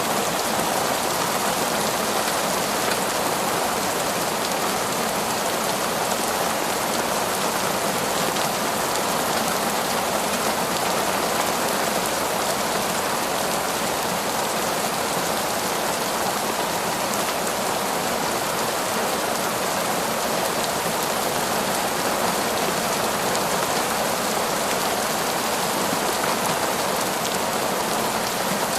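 Heavy, steady torrential rain falling through forest foliage, a dense even hiss of drops with no let-up and no thunder.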